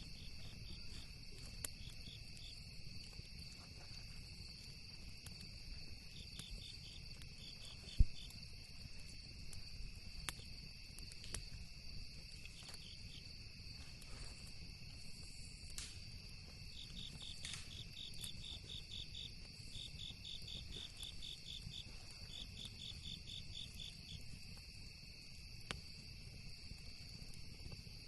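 Night insects trilling steadily, with rapid pulsed chirping that comes and goes, over a low rumble and occasional sharp pops of a crackling campfire. One pop about eight seconds in is the loudest sound.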